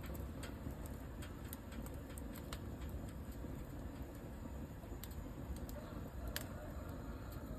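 Nurgaz fireplace burning: a steady low rumble with irregular sharp ticks and crackles, two louder ones about five and six seconds in.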